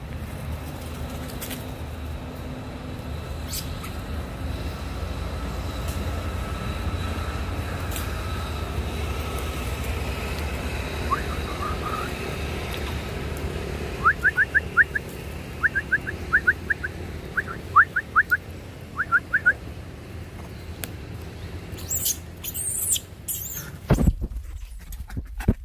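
Steady low rumble of wind and handling on the microphone, with several bursts of quick, falling high chirps from a bird in the middle. Near the end come loud rustling and a thump as the camera is swung down.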